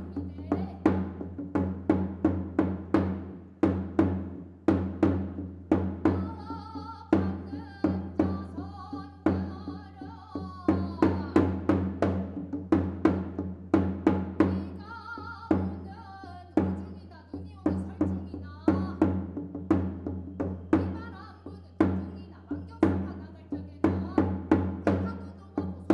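Music for a Korean shamanic blessing ritual (chugwon-gut): fast, repeated drum strokes over a steady low drone, with a wavering melodic voice or instrument line coming in about seven seconds in and again around fourteen seconds.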